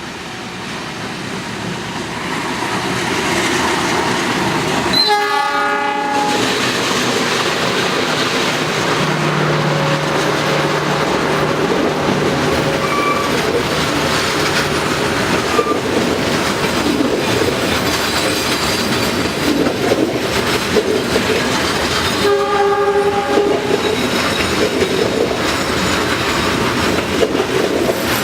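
Train running on rails, with steady wheel noise and clatter that builds up over the first few seconds. A multi-tone train horn sounds briefly about five seconds in and again about twenty-two seconds in.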